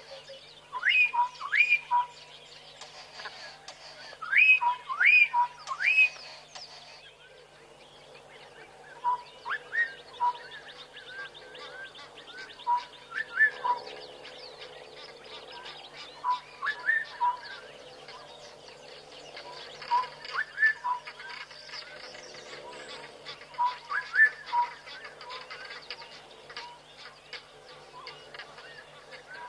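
Birds calling: short whistled phrases of quick upward-sweeping notes with lower notes between, repeating every few seconds. They are loudest in the first six seconds.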